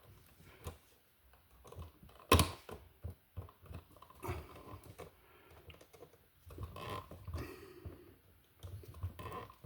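Irregular small clicks and scraping of stiff copper electrical wires being handled and worked together by hand, with one sharp click about two seconds in.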